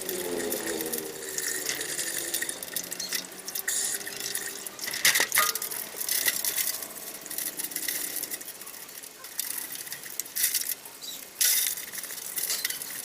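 Water running and splashing, with light clicks and knocks of hard objects throughout.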